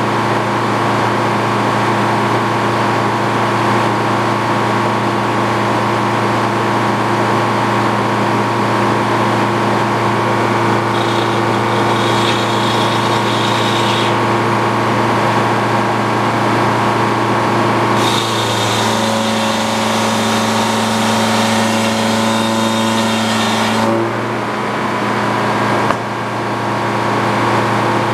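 Antique Frick circular sawmill running under power, a steady mechanical drone while it saws a pine log. About two-thirds of the way through a higher steady tone and a hiss join for several seconds, then stop, and the sound drops briefly near the end before picking up again.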